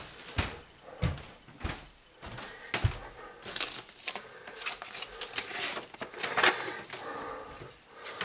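Handling noises of a sticker label being peeled off and pressed on: a scatter of short knocks and clicks, with rustling in the middle.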